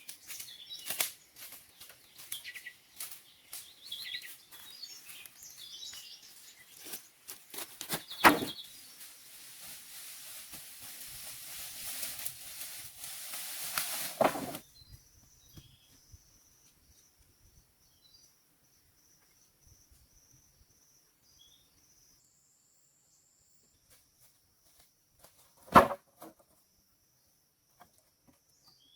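Outdoor ambience with scattered bird chirps and knocks over a hissing noise that builds and then cuts off suddenly about halfway. After that a faint, steady high whine runs on, with one loud knock a few seconds before the end.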